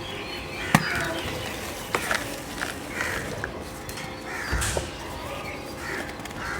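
Chalk chunks cracking and crumbling under pressure: a few scattered sharp cracks and a dull thump about four and a half seconds in. Behind them is a softer repeated sound, about once a second.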